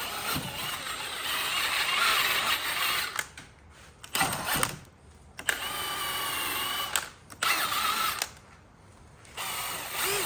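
Stick-welding arc from a Miller Bobcat 250 crackling and hissing in five bursts, the longest about three seconds, as the arc is struck and broken between short welds.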